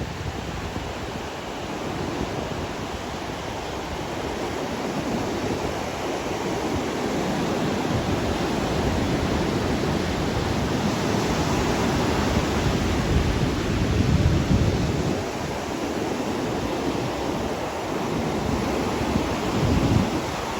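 Pacific Ocean surf washing onto the beach, a steady rush of waves that swells and eases. Wind gusts on the microphone add a low rumble, strongest about two-thirds of the way through and near the end.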